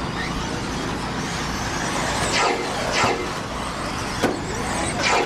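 Radio-controlled stock trucks racing on a track, their motors whining in high passes that fall in pitch, three times. There is a sharp click a little after four seconds, over a steady background of track noise.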